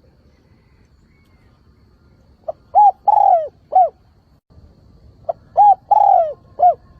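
Spotted dove (chim cu gáy) cooing, a decoy bird's call used to lure wild doves: two phrases, each a quick short note and then three coos, the middle one longer and falling in pitch.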